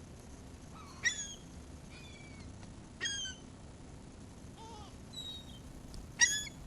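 Seagulls calling: a series of short, mewing cries, about six in all, the loudest about a second in and near the end.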